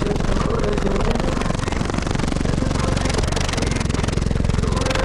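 Loud, steady deep bass from a car's wall of six 15-inch Pride S15 subwoofers.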